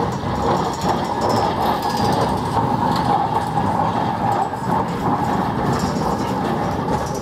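Electric rack-railway train of La Rhune rolling past at close range, its wooden carriages going by with a steady mechanical hum.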